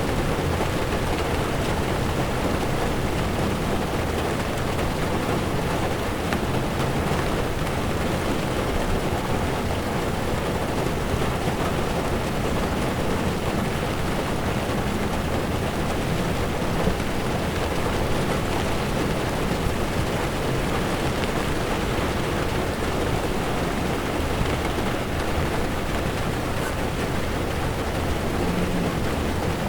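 Heavy rain falling on a car's windshield and body, with tyres on a wet road beneath it. The sound is a steady, even rain noise with no breaks.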